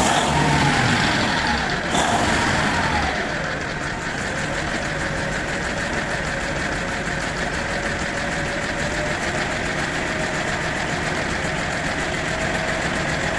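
Cummins KTA38 V12 diesel engine running: its speed drops over the first few seconds, then it settles to a steady idle.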